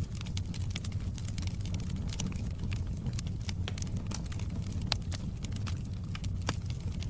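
Wood fire burning in a fireplace: a steady low rumble of the flames with frequent sharp crackles and pops, a couple of louder pops in the second half.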